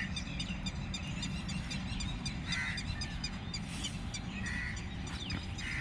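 A bird calling four times, in short separate calls spaced about two seconds apart, over a steady low background rumble.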